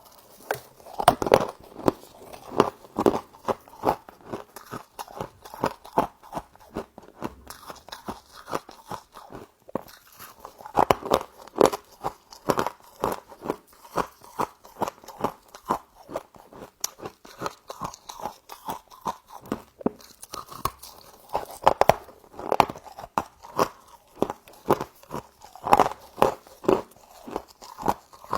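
Frost being bitten and chewed close to the microphone: a steady run of crisp crunches, several a second, with louder bites every few seconds.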